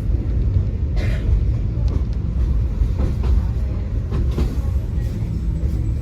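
Tram running along the track: a steady low rumble from the wheels and running gear, with scattered light clicks and knocks.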